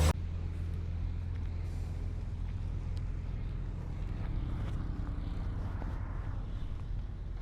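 Diesel engine of heavy earthmoving equipment running at a steady low rumble, with a few faint clicks.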